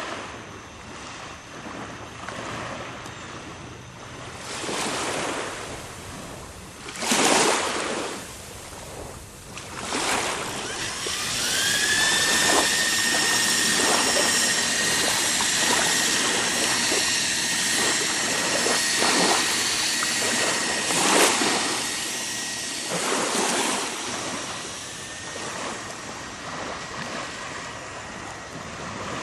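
An electric drill's motor spins up to a steady high whine about ten seconds in and holds it for over ten seconds, then trails off. Water splashing and wind on the microphone run throughout.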